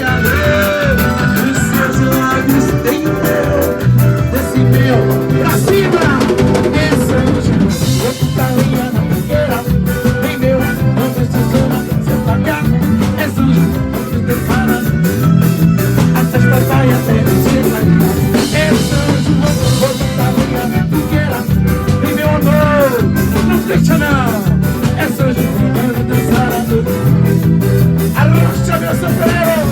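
Instrumental break of a Brazilian band's dance song: drum kit and guitar playing a steady, upbeat rhythm with no lead vocal.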